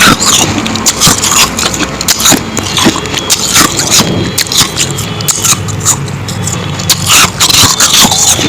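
Close-miked crunching of powdery ice being bitten and chewed: a dense, irregular run of sharp crunches.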